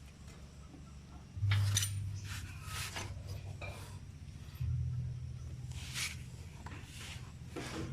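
Metal tools and motorcycle parts clinking and knocking while the rear wheel is being stripped. A low steady hum sets in about a second and a half in and shifts in pitch about halfway through.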